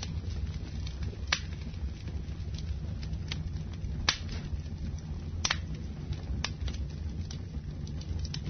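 Wood fire burning in a fireplace: a steady low rumble of flames with scattered crackles and sharp pops, the loudest about a second in, at four seconds and at five and a half seconds.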